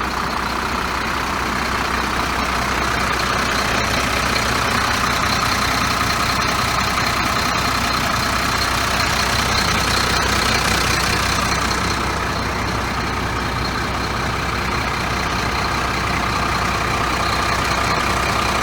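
2003 Volvo 6x4 tanker truck's diesel engine idling steadily.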